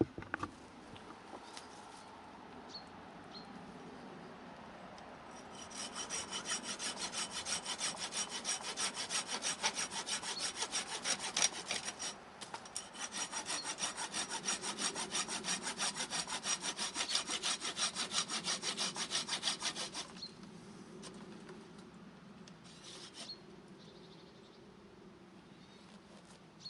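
A hand saw cutting through wood in quick, even back-and-forth strokes. The sawing starts about five seconds in, pauses briefly about halfway and stops some six seconds before the end.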